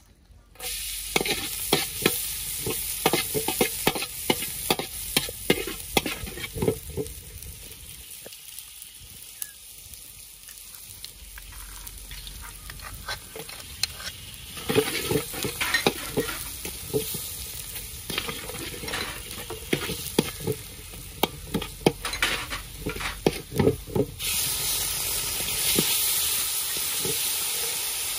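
Chopped garlic and red chilies frying in oil in a large steel wok: sizzling that starts suddenly about half a second in, with a metal spatula scraping and clicking against the pan. Near the end the sizzling grows louder and steadier.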